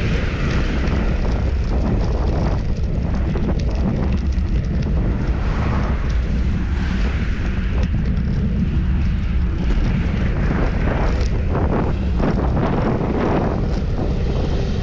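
Wind rushing over the microphone of a camera riding on a moving bicycle, a steady loud rumble.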